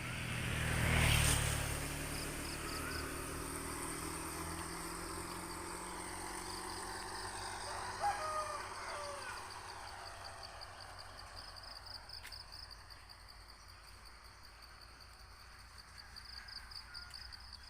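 A motor vehicle passes close by, loudest about a second in, then its engine fades away with slowly falling pitch. Insects keep up a steady high buzz, with a few short bird chirps.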